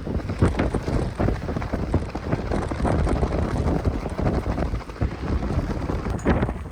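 Strong mountain wind buffeting the microphone: a loud, gusty rumble that rises and falls.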